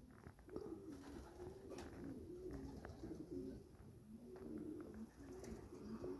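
Racing pigeons cooing, several low wavering coos overlapping throughout, with a few faint clicks.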